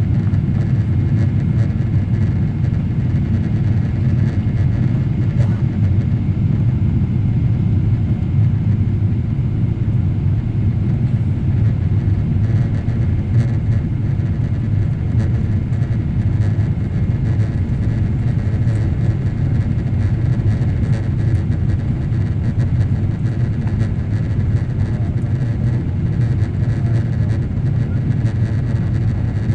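Steady low cabin rumble inside a Boeing 777-300ER in flight on approach: engine and airflow noise heard from the passenger cabin, even and unchanging.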